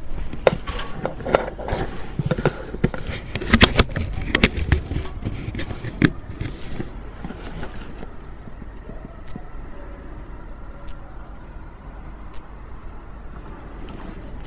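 Rapid, irregular clattering knocks and clicks, dense for about the first seven seconds and then thinning to occasional faint ticks, over a steady low rumble.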